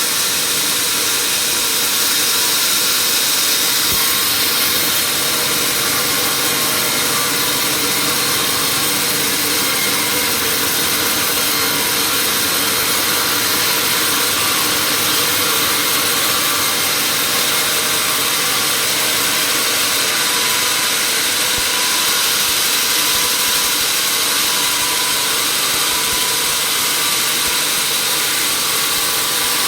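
Sawmill machinery running steadily: an even, hissing machine noise with faint steady whines, unchanging throughout, with no cut or stop.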